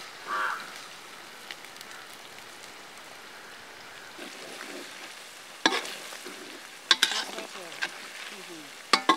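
Sliced onions and green chillies sizzling steadily in hot oil in a steel kadai, with a metal ladle stirring and knocking against the pan several times in the second half.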